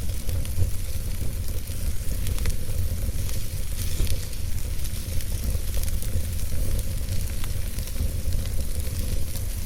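Campfire crackling, with many small irregular pops and snaps over a steady hiss, and a steady low rumble of wind beneath.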